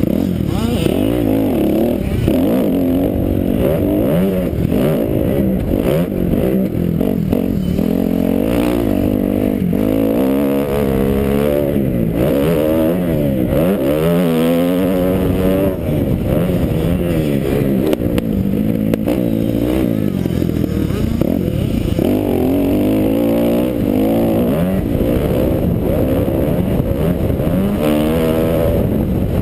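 Kawasaki KX250F four-stroke single-cylinder motocross engine ridden hard, revving up and down in quick rises and falls every second or two through the gears. It sounds muffled, as picked up by a helmet-mounted GoPro.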